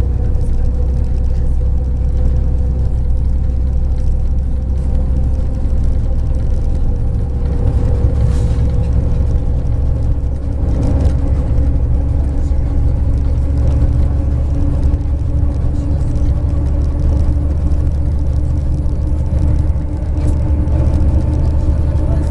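Inside a MAZ 103 city bus under way: a steady low rumble of engine and road, with a humming drivetrain tone that rises slightly in pitch from about halfway, and a few light knocks.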